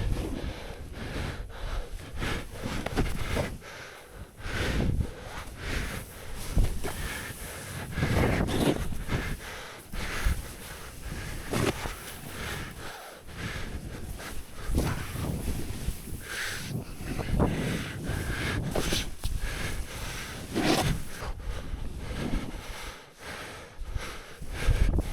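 Snowboard sliding and turning through deep powder snow, in irregular swells of rushing noise, with wind buffeting the microphone.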